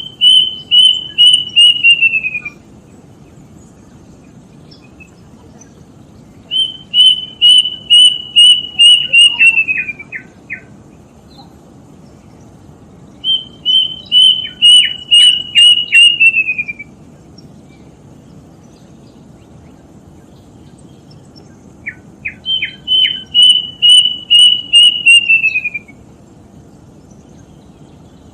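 Kedasih (plaintive cuckoo) singing: four bouts of about eight clear whistled notes, each series falling in pitch at its end, repeated every six or seven seconds over a steady low background hiss.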